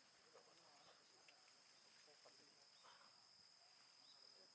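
Near silence outdoors, with a faint, steady, high-pitched insect trill from crickets running throughout and a few faint scattered ticks.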